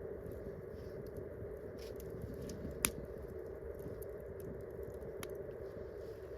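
Wood campfire crackling: sparse sharp pops over a steady background, the loudest about three seconds in and another a little after five seconds.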